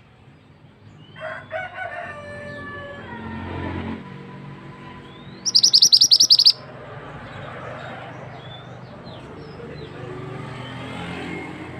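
Mantenan bird song over running water: scattered short high chirps, with a very loud, rapid high trill of about ten notes a second starting about five and a half seconds in. A longer, lower call with several stacked tones falls slightly in pitch during the first few seconds, over a steady hiss of flowing water.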